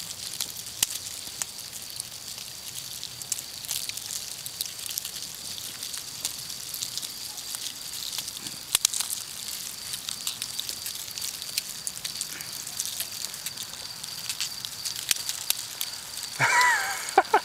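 Swarms of emerging 17-year periodical cicadas crawling and dropping under a tree, making a dense, irregular crackle of tiny clicks that sounds like Rice Krispies or rain. A steady high whine sits behind it, and a brief pitched call or voice comes near the end.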